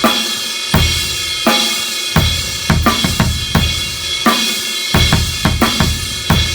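Drum kit played solo in a rock groove: a crash cymbal struck on steady quarter notes over bass drum and snare, its wash ringing on without a break between the hits, with a few quicker strokes in the second half.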